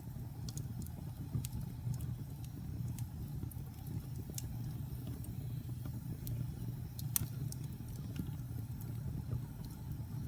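Wood fire burning in a fireplace: a steady low rumble of flames with irregular sharp crackles and pops, the loudest about seven seconds in.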